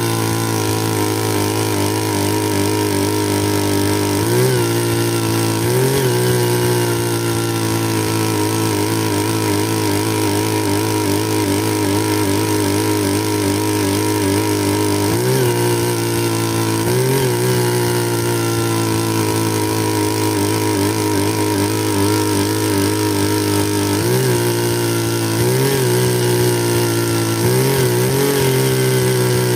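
Bernard Moteurs W14 15 hp engine running steadily, its pitch briefly rising and settling again every few seconds as the speed surges.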